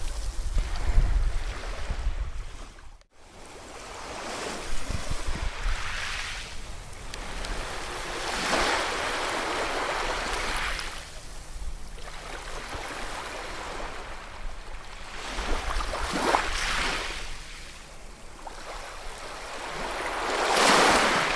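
Ocean waves breaking and washing on a shore, the surf swelling and falling back in several surges, with a brief dropout about three seconds in.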